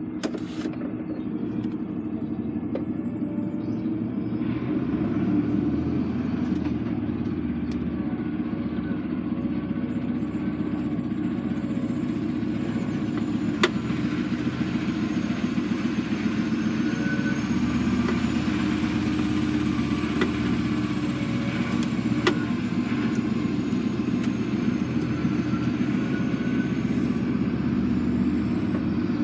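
Lorry diesel engine running steadily, a continuous low drone, with two sharp clicks partway through.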